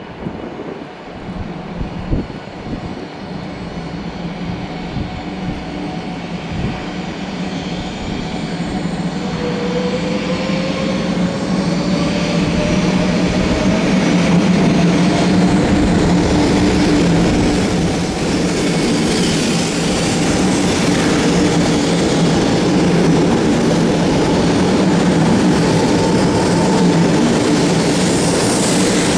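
500 Series Shinkansen pulling away from the platform: a traction-motor whine rises steadily in pitch as the train accelerates, over a steady hum and the rumble of wheels on rail. The sound grows louder for the first half and then holds as the cars pass close by. A few thumps come in the first several seconds.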